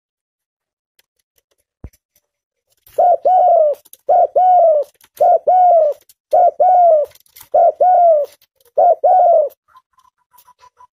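Spotted dove (tekukur) cooing, starting about three seconds in: six repeated coo phrases about a second apart, each a short run of arching notes. Near the end, a faint fast ticking begins.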